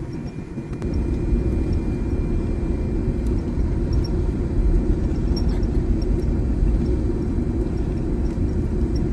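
Airliner cabin noise during landing: a steady low rumble of engines, airflow and the airframe, growing louder about a second in.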